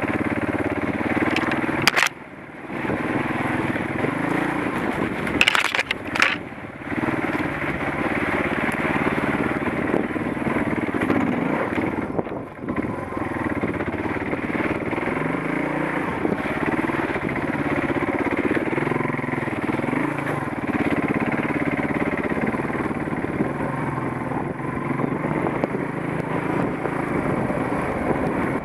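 Suzuki DR350's single-cylinder four-stroke engine running off-road at low speed, its revs rising and falling. Sharp knocks about two seconds and about six seconds in.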